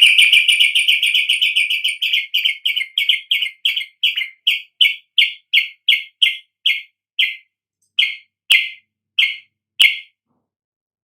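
Yellow-vented bulbul (trucukan) giving a long series of sharp, high chirps. They come fast at first, about six a second, and slow steadily to about one a second before stopping about ten seconds in.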